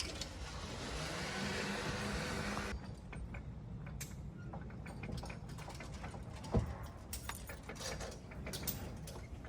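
Zip line trolley running along the steel cable with a hissing whir for a couple of seconds, its low hum bending up and then down, followed by scattered metallic clicks and clinks of clips and lanyard hardware, with one sharp knock about six and a half seconds in.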